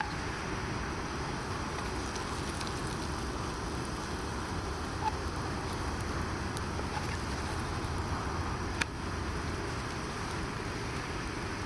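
Egg-dipped bread sizzling steadily in hot oil and butter in a frying pan on a camping gas stove, with faint clicks of a wooden spatula and one sharp click about nine seconds in.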